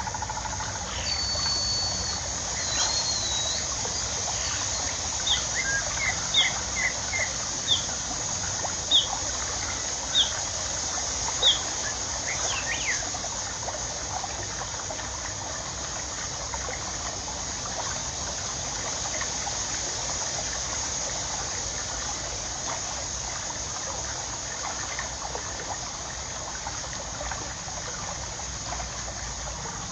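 Water trickling steadily, with a bird calling over it: a whistled note near the start, then a run of six short, downward-sliding chirps about a second apart in the first half.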